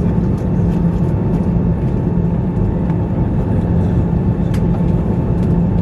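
Airbus A340-300's four CFM56 jet engines running steadily: a constant low rumble with a steady hum through it.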